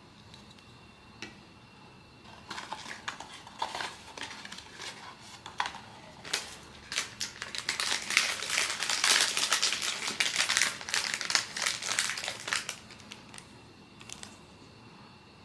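Plastic blind-box packaging crinkling and crackling as it is unwrapped by hand. It starts a few seconds in, is thickest past the middle and dies away near the end, leaving a few small clicks.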